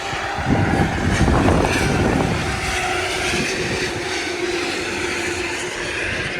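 Distant engine drone, with a low rumble that is loudest in the first couple of seconds and a steady hum from about halfway through.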